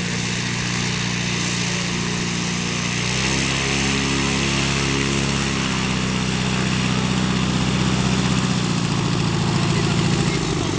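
Small aircraft's engine running, its note shifting in steps about three seconds in and again near six seconds, growing slightly louder toward the end.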